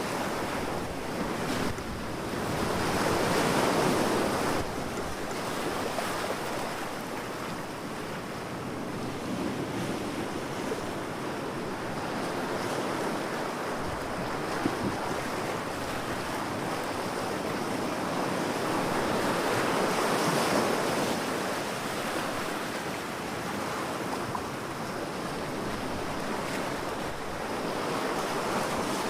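Beach waves surging and washing ashore: a steady rush of surf that swells about three seconds in, again around twenty seconds, and near the end.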